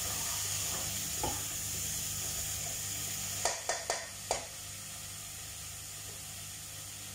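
Squash with dried shrimp sizzling as it is sautéed in a metal pot and stirred with a spatula. There is one knock about a second in and a quick run of four sharp knocks of the spatula against the pot about three and a half seconds in. After that the sizzle goes on steadily, a little quieter.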